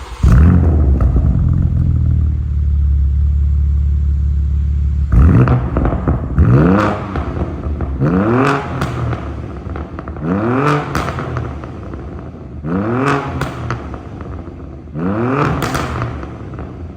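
BMW G87 M2's twin-turbo straight-six through a Tneer valved aftermarket exhaust: a deep, loud idle for about five seconds, then about six sharp free revs, each with crackles as the revs fall.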